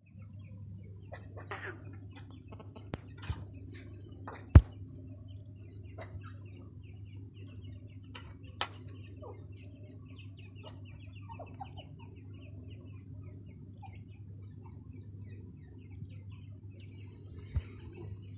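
Partridge chicks peeping in many short, quick cheeps, over a steady low hum. A few sharp knocks break in, the loudest about four and a half seconds in.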